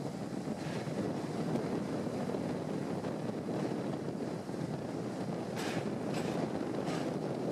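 Train rumbling across the steel railway bridge, with wind buffeting the microphone and a few sharp clicks near the end.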